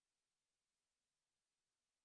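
Near silence: a faint steady hiss with no sound events.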